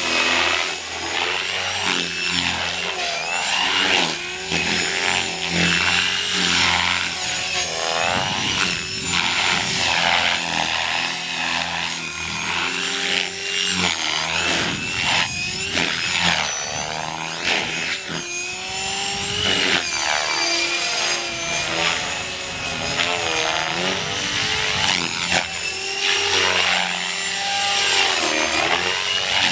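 GAUI Hurricane 425 radio-controlled electric helicopter in flight: the rotor blades chop and the motor and gears whine, the pitch rising and falling over and over as the rotor speed and blade load change through manoeuvres.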